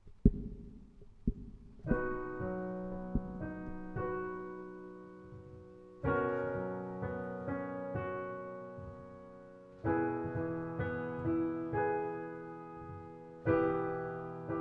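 Piano playing a broken-chord accompaniment in B major: a fresh chord struck about every four seconds with single notes picked out in between. A sharp knock and a couple of softer thumps come first, before the playing starts about two seconds in.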